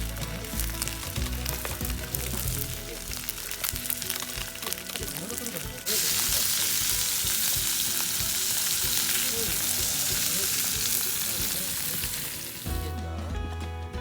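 Food sizzling in a hot pan: a loud, even sizzle that starts abruptly about six seconds in and cuts off shortly before the end. Before it there are lighter clicks and scraping over background music.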